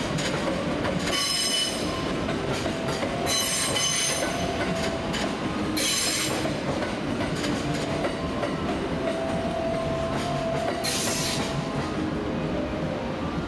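Train moving slowly through a station, its wheels squealing on the rails in several short high-pitched bursts over a steady running rumble.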